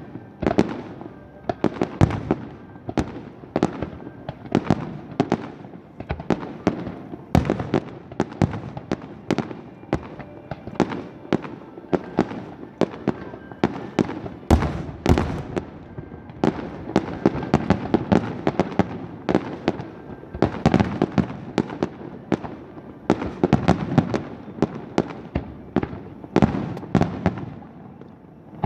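Aerial fireworks display bursting without pause, several sharp bangs a second with echoing tails, the loudest cracks clustered near the middle and in the last third, over music playing underneath.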